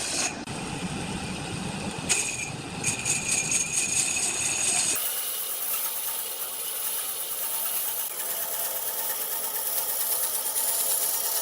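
A power tool running steadily while working wood. About five seconds in, the sound changes abruptly to a thinner, high hiss without its low end.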